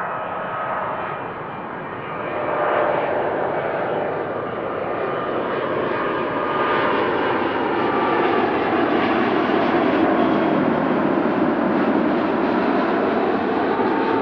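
Jet airliner engines passing close by: a loud, steady engine rush that swells about three seconds in, with tones that slide down in pitch in the second half as the aircraft goes past.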